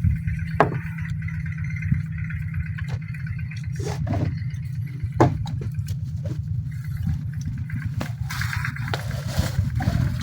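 Kubota tractor's diesel engine running steadily, with scattered knocks and clanks over it and a rougher, noisier stretch near the end.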